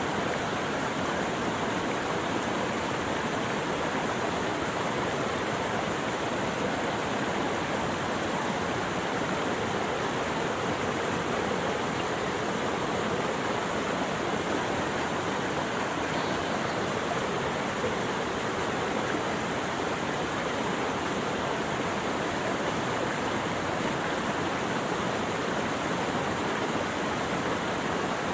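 Running water of a stream or waterfall, a steady, unbroken rush.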